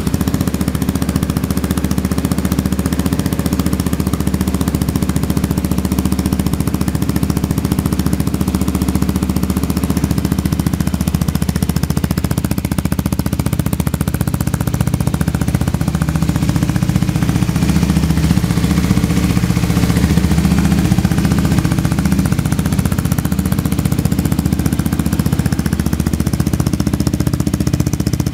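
Kawasaki Z250SL's single-cylinder engine idling steadily just after a start, a loud, even, fast thumping through a Coffman's shorty exhaust tip with its baffle still fitted.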